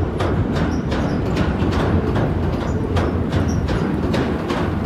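Passenger train crossing a steel truss railway bridge: a steady rumble with clacks of the wheels over the rail joints coming a few tenths of a second apart.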